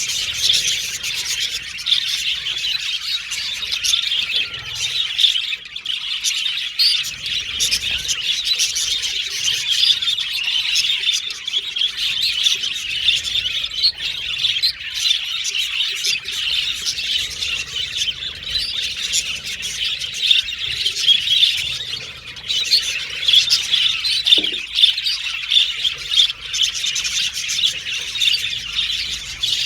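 A group of budgerigars chattering together, a dense, continuous warble of rapid chirps with scattered squawks, briefly easing off about three quarters of the way through.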